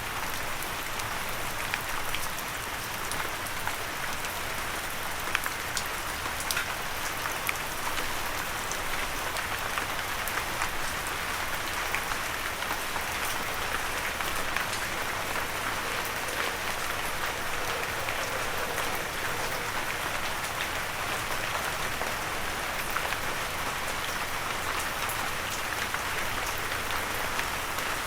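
Steady gentle rain falling, an even hiss dotted with the light ticks of individual drops, with no thunder.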